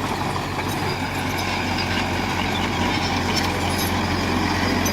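Heavy earthmoving machine's diesel engine running steadily under load.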